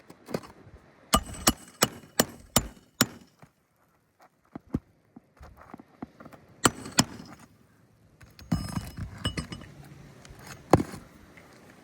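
Hammer strikes on metal during shingle repair: a quick run of about six blows, then a few scattered strikes and clinks later on.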